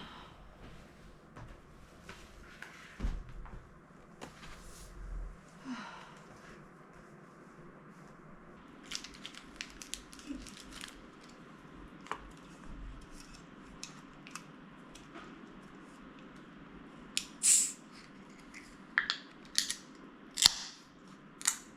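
Scattered clicks and taps of dishes and cutlery at a meal table, coming more often and sharper near the end.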